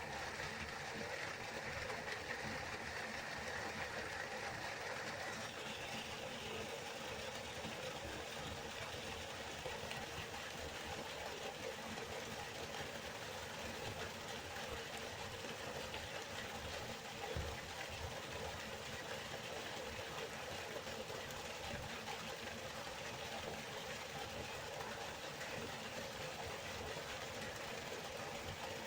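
Steady rushing of a river's flowing water, its tone shifting slightly about five seconds in.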